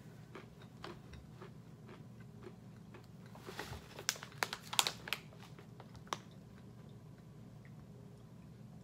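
Faint crunching of roasted peanuts being chewed, with crackling from the stiff foil snack bag as it is handled, loudest in a cluster about halfway through.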